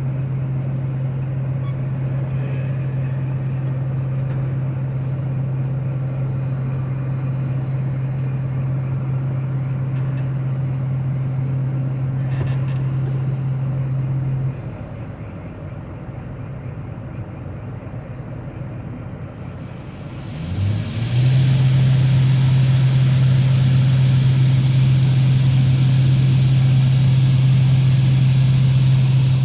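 Harvest machinery running with a loud steady hum that drops away about halfway through, then winds back up with a short rising whine and returns louder, with added hiss.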